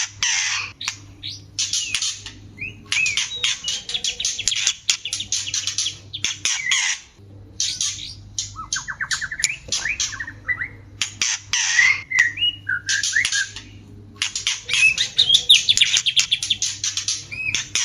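White-rumped shamas' courtship calls: harsh squawking and rapid clicking chatter in bursts with short gaps, mixed with brief whistled notes. A quick run of rising notes comes about nine seconds in.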